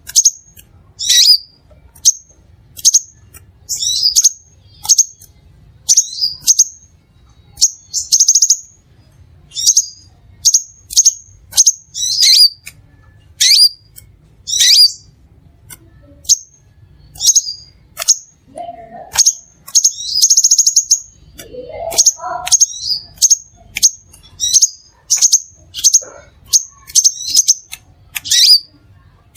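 Crimson sunbird calling: a steady run of sharp, high chips, about one or two a second, broken by a couple of brief buzzy trills.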